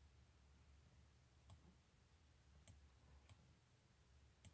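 Faint computer mouse clicks, four or so spread out over a few seconds, against near-silent room tone with a low hum.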